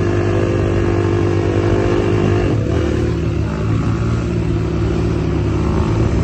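Off-road vehicle engine running at fairly steady revs, its pitch easing down a little about two and a half seconds in, then cutting off suddenly at the end.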